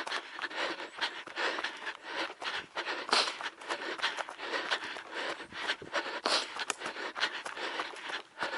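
A trail runner's hard breathing with a quick, uneven run of footsteps scuffing on the trail.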